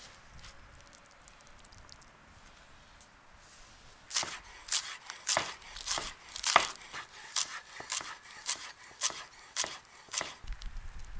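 Knife chopping on a cutting board: about a dozen crisp strokes, roughly two a second, starting about four seconds in.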